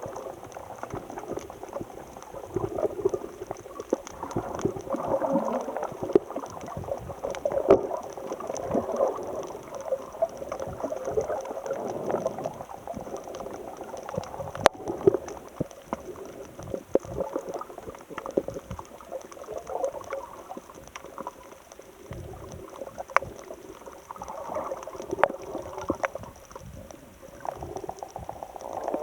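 Sea water gurgling and sloshing in an irregular churn, with scattered sharp clicks.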